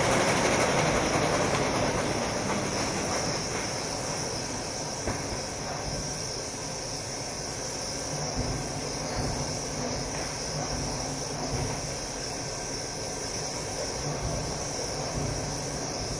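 Toilet paper machine running: a steady mechanical noise under a constant high hiss, easing a little in level over the first few seconds, with a few faint knocks.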